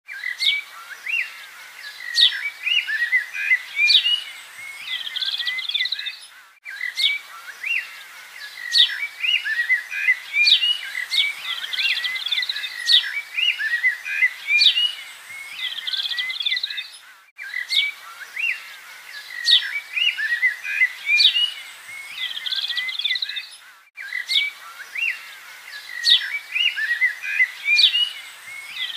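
Birds chirping and twittering in a dense, busy chorus of quick high calls and trills. The sound cuts out briefly three times and starts again with much the same pattern, as a repeating recording does.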